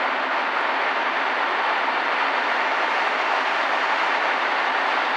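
Passenger trains rolling through a roofed station hall: a steady, even rumble and hiss of wheels on rail with no distinct clicks.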